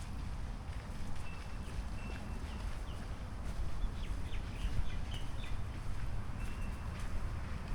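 Birds giving short high chirps and brief thin whistles, busiest in the middle, over a steady low outdoor rumble.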